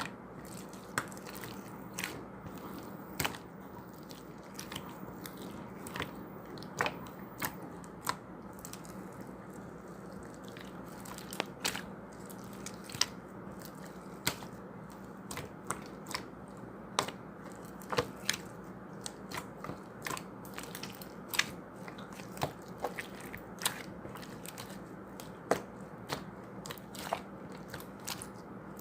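Slime being squeezed and kneaded by hand, giving irregular sharp clicks and pops, about one or two a second, over a steady low hum.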